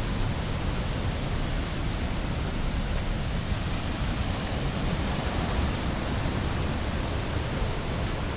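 Fast mountain creek rushing over rocks, a steady roar of whitewater.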